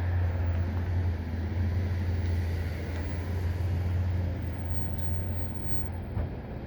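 NJ Transit diesel-hauled commuter train approaching the station, a steady low rumble with a hiss of noise over it, easing slightly near the end.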